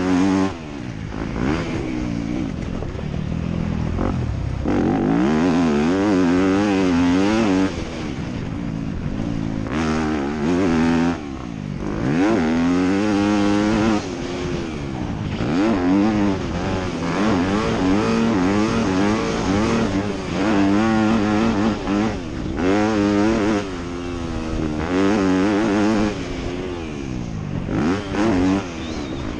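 Motocross dirt bike engine racing: the pitch rises and falls over and over as the throttle is opened and shut, with short sudden dips between the pulls.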